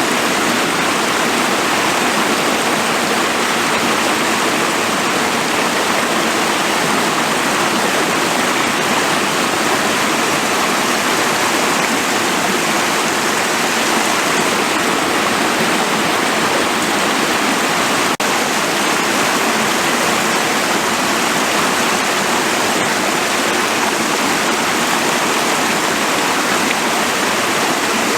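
A woodland stream rushing steadily, a loud, even wash of running water, with a momentary dip in the sound about two-thirds of the way through.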